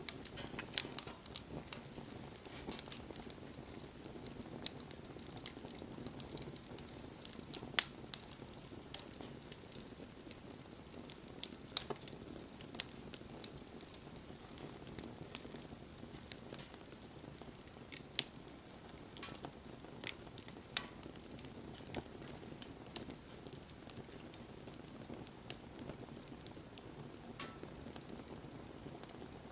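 Wood fire crackling: a steady soft hiss broken by frequent irregular sharp pops and snaps from the burning wood.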